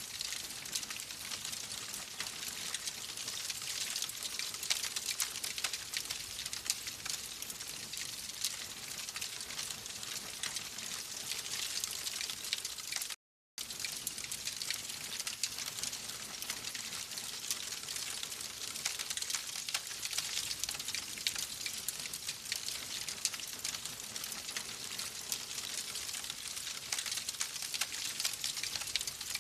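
Wood fire crackling: dense fine pops and snaps over a steady hiss. The sound cuts out completely for a split second about 13 seconds in, then resumes.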